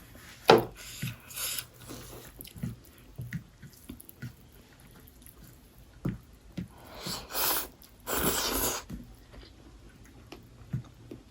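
Close-miked eating sounds of chicken biryani being eaten by hand: scattered wet chewing clicks. There are two longer noisy bursts about seven and eight seconds in.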